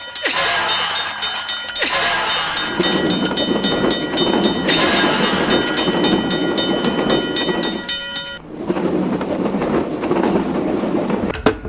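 A passing train: a dense rushing rail noise with steady high tones running over it. It changes abruptly about two, five and eight seconds in, like sound-effect clips cut together.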